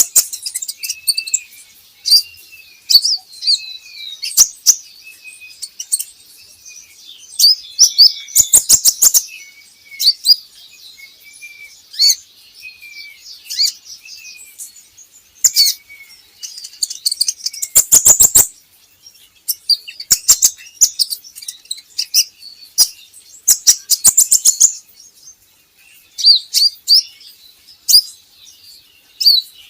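Brown-throated sunbird (kolibri ninja) singing: a busy string of high, sharp chips and twitters, with short slurred whistles in the first half and rapid rattling trills twice, at about 9 and 18 seconds in.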